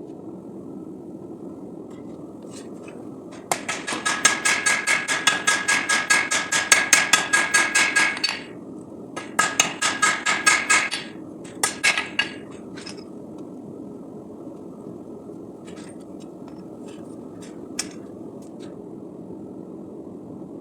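Hand hammer striking hot 5160 steel on an anvil, each blow ringing. The blows come in two fast runs of several seconds at about five a second, then a few single blows and some light taps. A steady low rushing noise runs underneath throughout.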